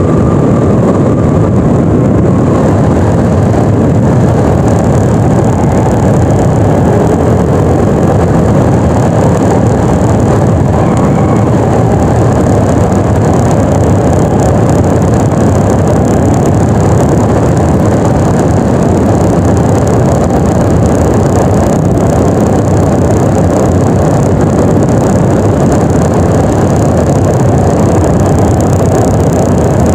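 Yamaha NMAX 155 scooter's single-cylinder engine running steadily under way, with heavy wind noise on the microphone. A steady high hiss sits above it.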